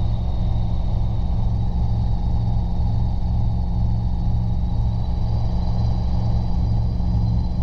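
Robinson R22 helicopter in flight heard from the cabin: a steady, loud drone of rotor and engine with a faint high whine above it that rises slightly near the end.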